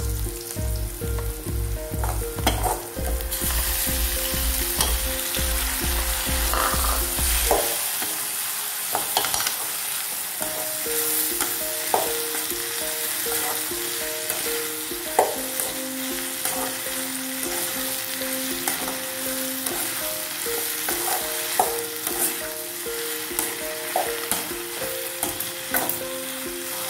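Onions, chillies, cashews and chopped tomatoes sizzling in hot oil in an aluminium kadai, stirred with a metal ladle that clicks and scrapes against the pan. The sizzle grows louder about three seconds in.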